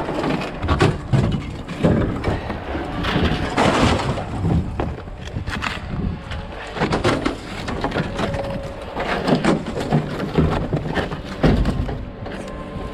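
Scrap metal being unloaded: irregular clanks, knocks and clattering as pieces are tossed and dropped, with a short metallic ring about eight seconds in.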